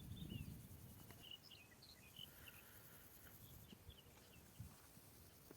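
Faint birds chirping: many short, scattered high chirps, with a low rustle right at the start.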